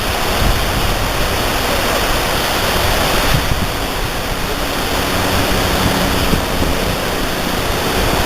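Loud, steady rush of water from the falls and the boat's passage, with wind buffeting the microphone as low rumbles underneath.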